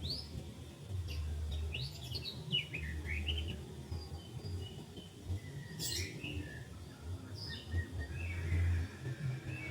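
Several small birds chirping and calling in short, quick notes that sweep up and down in pitch, scattered through the whole stretch, over a low rumble that swells and fades.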